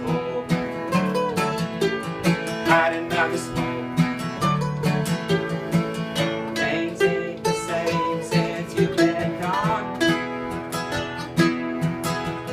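Acoustic guitar playing an instrumental break in a country-style song, picked notes over chords.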